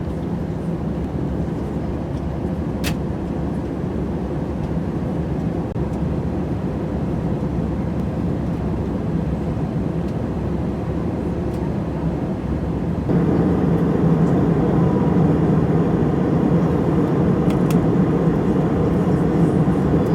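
Airbus A321-200 cabin noise heard from a passenger seat: a steady hum of engines and airflow with a low drone. It steps up abruptly in level about thirteen seconds in, and there are a couple of faint clicks.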